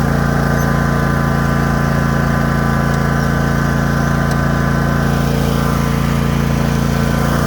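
Cub Cadet RZT zero-turn mower's Kohler Pro 25 V-twin engine running steadily at raised throttle, with an even, unchanging pitch. The owner says it makes no bad noises.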